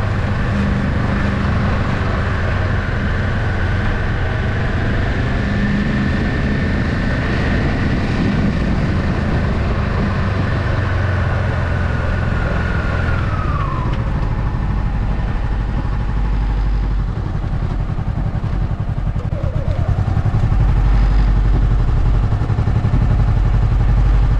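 Motorcycle engine running under way with a steady rumble and a held whine. The whine drops in pitch about halfway through as the bike eases off, and the engine grows louder again near the end as it picks up.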